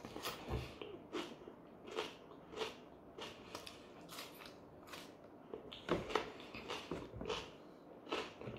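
Close-up chewing of a mouthful of pljeskavica in flatbread: wet smacking and clicking mouth noises about twice a second.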